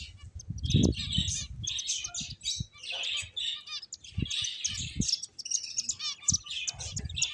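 Pet finches chirping in quick, overlapping calls throughout, with a cluster of low thuds about a second in and a few single thuds later.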